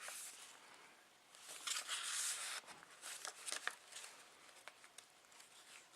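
Faint rustle of paper as the pages and cards of a handmade paper journal are handled and turned, about a second and a half in, followed by a few light clicks.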